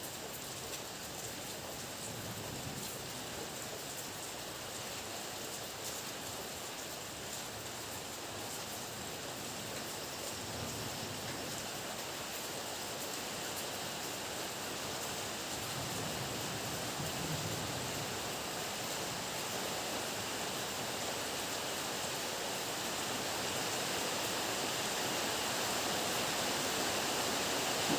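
Heavy, steady downpour of rain, an even hiss that grows gradually louder, with a few faint low rumbles of distant thunder underneath.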